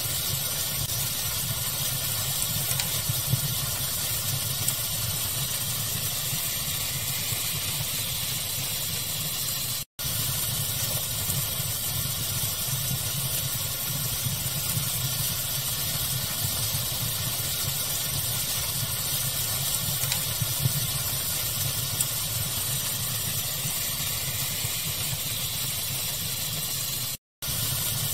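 Steady pink-noise hiss with a fire crackling in it, small pops scattered through. The sound cuts out completely for a split second twice, about ten seconds in and near the end.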